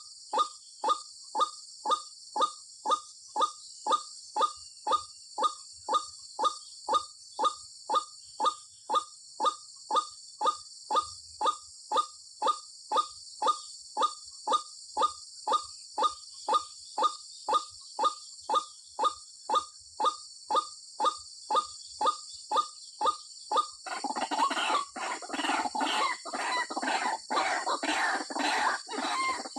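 White-breasted waterhen calling: a female's short call repeated steadily about twice a second, the kind of call used as a lure to draw in males. About 24 s in it turns into denser, harsher chattering, over a steady high hiss throughout.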